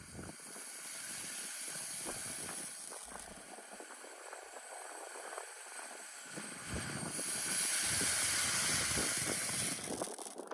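Brothers Pyrotechnics 'Sweet Cream' firework hissing steadily as it burns, growing louder about seven seconds in.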